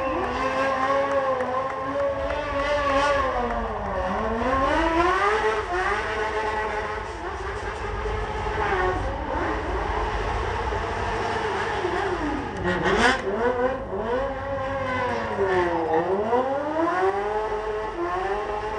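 Several motorcycle engines revving, their pitch repeatedly dropping and climbing back up as they are throttled on and off, with a sharp loud rev about two-thirds of the way through.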